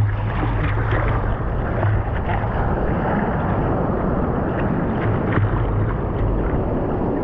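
Wind buffeting the microphone in a steady low rumble, over the rush of ocean surf.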